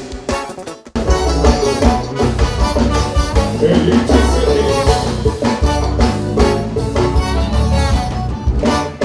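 Live forró band playing an instrumental passage with drums, bass and brass, the full band coming in hard after a short break about a second in.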